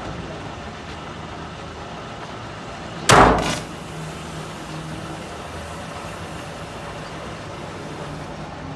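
Suzuki Mehran's three-cylinder engine idling steadily, with one loud, sudden thump about three seconds in.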